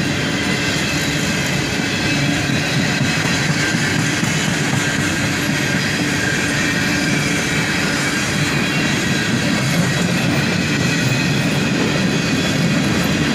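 Freight cars of a CSX manifest train rolling past close by: steady noise of steel wheels on rail.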